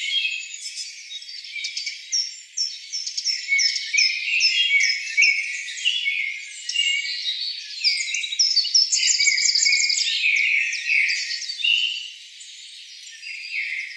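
Many small birds chirping and twittering at once: a dense, overlapping stream of short, quick, high notes.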